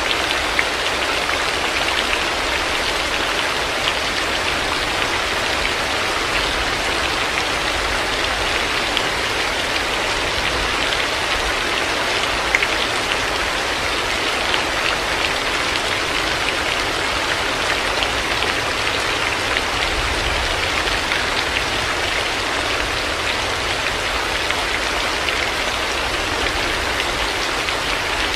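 Heavy rain falling steadily, an even hiss of rain on surfaces with scattered individual drop ticks.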